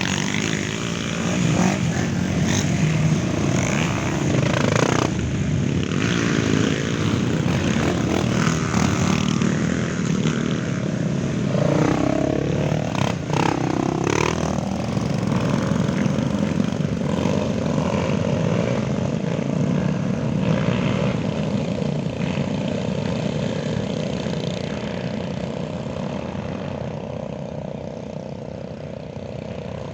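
Many off-road motorcycle engines running together, with several bikes revving up and down as they pass, around two seconds in, five seconds in and again at twelve to fourteen seconds. The sound dies away gradually near the end.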